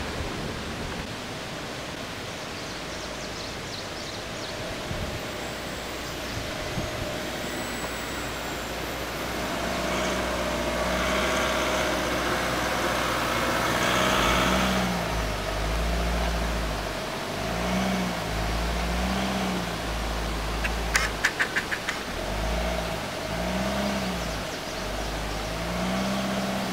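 SUV engine pulling on a rough track, its revs rising and falling again and again in the second half. A quick run of sharp clicks or rattles comes about 21 seconds in.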